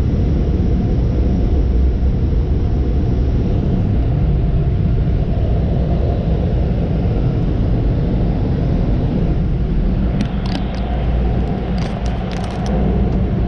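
Steady low rumble of a car being driven: road and engine noise, with a few short sharp clicks near the end.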